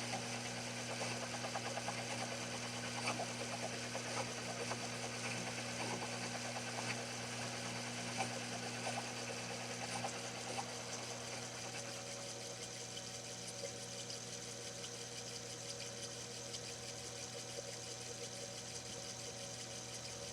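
Sherline mini lathe running, its motor and spindle giving a steady hum while the tool cuts phosphor bronze, with small scattered ticks over the hum.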